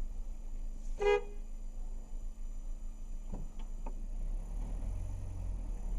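A short single car horn toot about a second in, over a steady low vehicle rumble, with a few faint clicks later.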